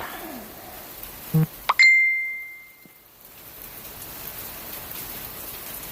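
Steady patter of hail and rain mixed together. About a second and a half in there is a knock and a click, then a single clear ding that rings for about a second, the loudest sound here, while the patter briefly drops out.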